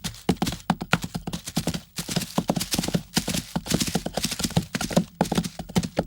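Horse hooves clip-clopping: a quick, uneven run of sharp knocks, several a second.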